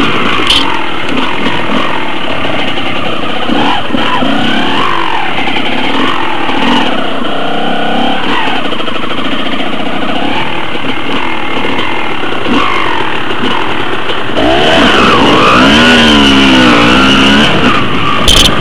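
Off-road dirt bike engine running under load on a climb, revving up and down, louder with hard revving in the last few seconds. A sharp knock near the end.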